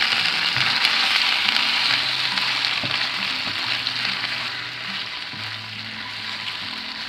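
Hot ghee tempering with cumin and curry leaves sizzles in a non-stick kadai as steamed spinach-semolina balls are tossed in and stirred with a silicone spatula. The sizzle is loudest at the start and dies down gradually.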